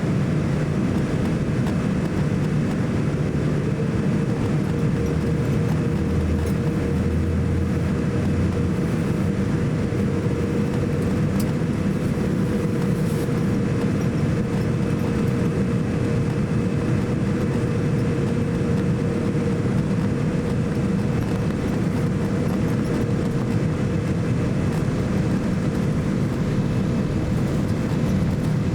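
Steady cabin noise inside a Boeing 787-9 airliner with its engines running: a low rumble under an even rush, with a faint steady hum.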